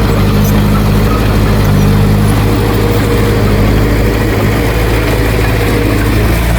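Heavy diesel engine of earthmoving equipment running steadily.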